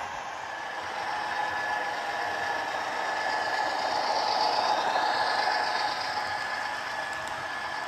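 HO scale model train running on the track: a steady whir and rattle of the motor and wheels, growing louder through the middle as it passes close, then easing off.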